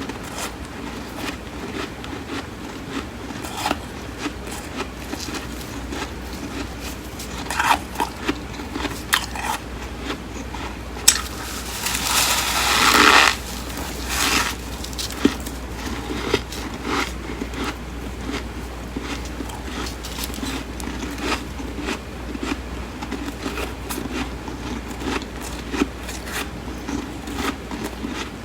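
Close-up crunching bites and chewing of flaky, crisp freezer frost, with scattered sharp crackles. One longer, louder crunch comes near the middle.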